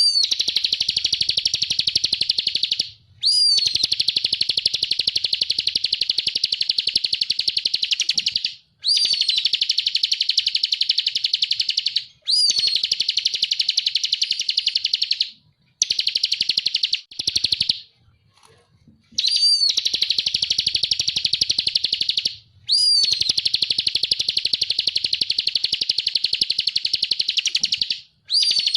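Ciblek kristal (a prinia kept as a songbird) singing loud, fast, unbroken trills in phrases of several seconds. Each phrase opens with a sharp upswept note and is followed by a brief pause, about eight phrases in all. It is a 'masteran' song recording, used to tutor other caged songbirds.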